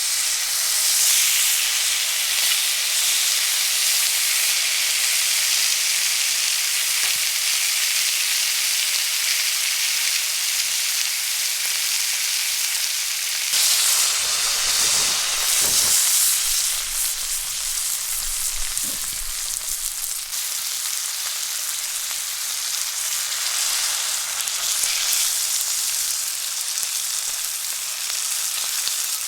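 Food frying in a hot pan over a fire, a steady sizzle, with some faint knocks and shuffling about halfway through.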